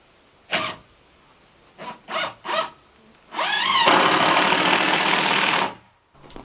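Handheld power tool motor: a few short trigger bursts, then a spin-up into a steady run of about two seconds under load that stops abruptly near the end.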